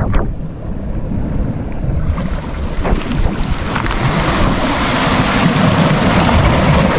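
Wind buffeting the microphone over sea waves washing against the rocks, the hiss of the wash growing fuller from about two seconds in.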